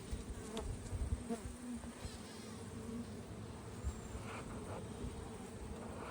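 Honeybees buzzing steadily on an open mating nuc, with a few soft low thumps in the first couple of seconds.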